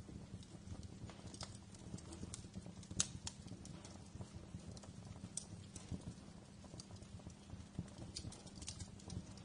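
Wood fire crackling in a fireplace: irregular sharp pops and snaps over a low steady rumble, with one louder pop about three seconds in.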